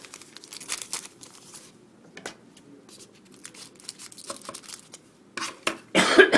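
A trading-card pack wrapper crinkling and tearing open in scattered rustles, with a louder burst of tearing near the end.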